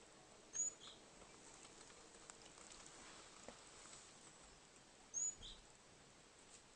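A small songbird gives a short, faint two-note call twice, a high thin note followed by a lower one, about four and a half seconds apart.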